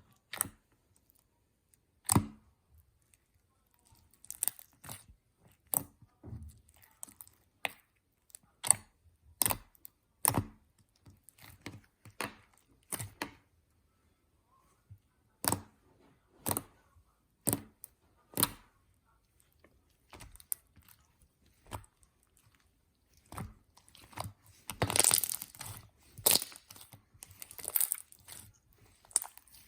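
Slime being pressed and squished by hand, giving sharp popping clicks about once a second, then a denser run of crackling near the end.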